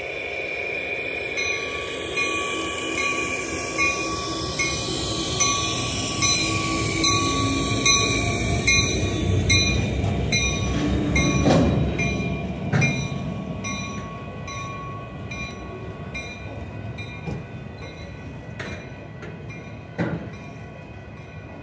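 EMD SD70M diesel locomotive, with its 16-cylinder two-stroke EMD 710 engine, passing close by at the head of a work train. It is followed by tie-loaded flatcars and ballast hopper cars rolling past with rhythmic wheel clatter over the rail joints and a thin steady wheel squeal. The sound is loudest about halfway through, with a few sharp bangs from the cars, then slowly fades.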